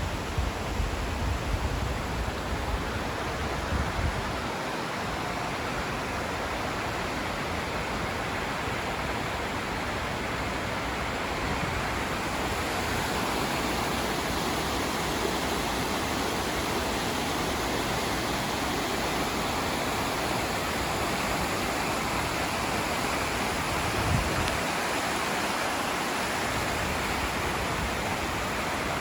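Steady rushing of running water, a continuous even hiss that grows a little fuller partway through. Low rumbling sits under it for the first few seconds.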